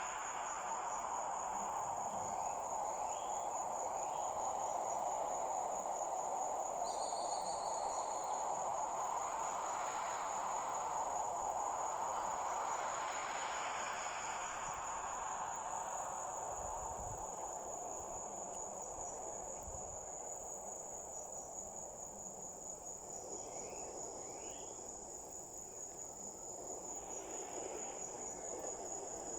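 Insects trilling steadily in a continuous high-pitched buzz over a soft hiss that swells and fades.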